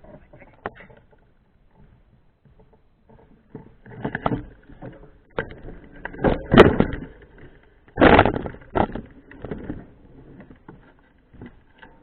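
Irregular bursts of rattle and rumble from a mountain bike being ridden over rough ground, louder in several jolts with quieter stretches between.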